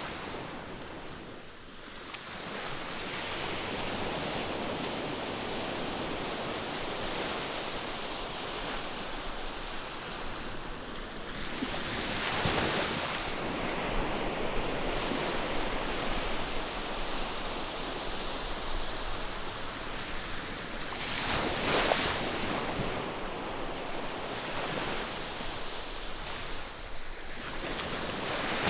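Distant ocean surf: a steady wash of waves breaking on the shore, with louder surges as waves break about twelve seconds in, about twenty-two seconds in, and near the end.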